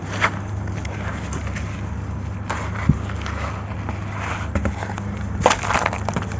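Dry sand-cement chunks crumbling: scattered gritty crunches and crackles, with a denser run of crunching about five and a half seconds in, over a steady low hum.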